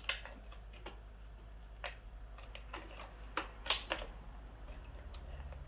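Irregular small clicks and taps of plastic wiring-harness connectors being handled and fitted together, about nine in all, the sharpest a few in quick succession past the middle.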